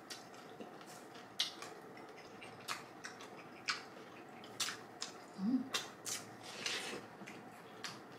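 Close-miked eating sounds: scattered short crisp crunches and clicks, about a dozen spread unevenly, with a brief low hum about five and a half seconds in.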